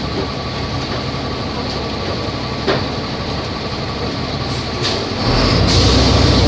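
Volvo B270F bus engine running with rattling body noise and an occasional click. A little past five seconds in it grows louder and deeper as the engine takes on load.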